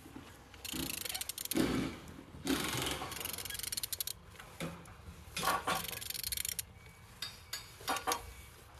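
Opel Z18XE 1.8-litre four-cylinder engine being turned over by hand with a wrench on the crankshaft, in three or four strokes of rubbing and clicking. The engine turns freely.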